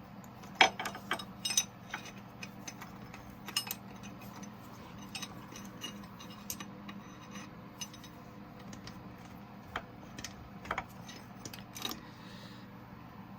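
Metal hand tools clicking and clinking irregularly against engine parts, with a few sharper knocks about a second in and near the end, over a low steady hum.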